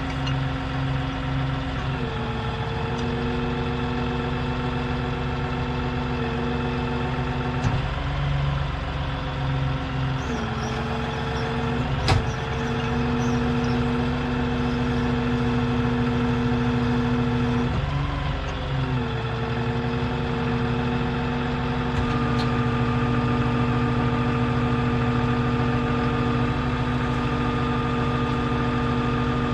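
An engine running steadily, its pitch shifting up and down several times, with a sharp metallic knock about twelve seconds in.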